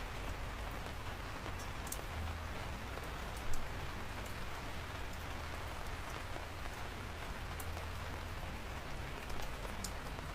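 Steady rain falling on a surface, with scattered individual drops ticking sharply through the hiss and one louder tap about three and a half seconds in.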